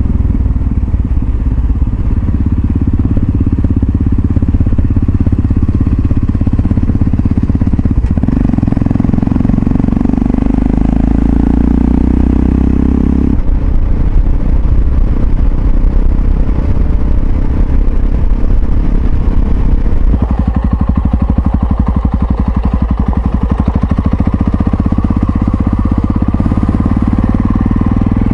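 Yamaha XT660Z Ténéré's single-cylinder engine running under way, loud and low. Its note shifts abruptly about 8, 13 and 20 seconds in.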